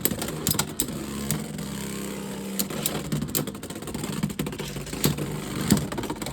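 Beyblade X spinning tops whirring and clashing in a plastic stadium, with repeated sharp clacks as they hit each other and the walls. A steady whirring hum fades out a little under three seconds in, while the knocks go on.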